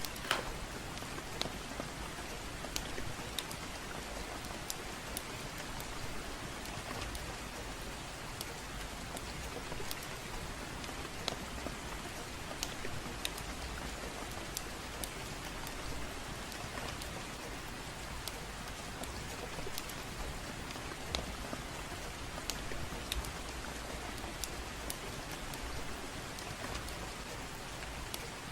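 Gentle rain falling steadily, with a wood fire crackling in short sharp pops scattered irregularly throughout.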